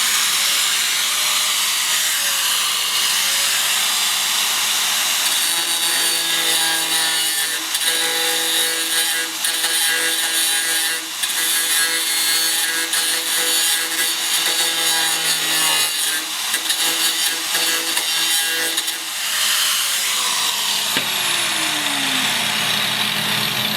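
Cut-off tool with a zip-cut wheel grinding old lead filler out of a car body seam: harsh grinding noise over a steady motor whine. The pitch falls near the end as the tool winds down.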